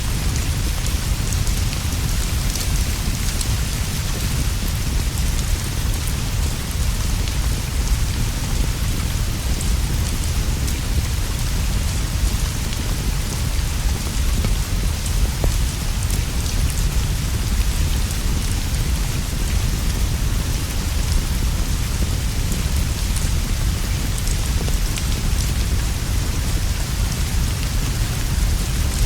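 Steady heavy rain falling on a roof and leaves, a dense even hiss with a deep, constant low rumble beneath it and faint scattered ticks throughout.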